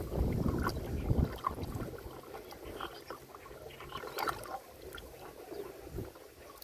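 Dishes being washed in a river: water sloshing, heaviest in the first two seconds, then quieter, with scattered light knocks.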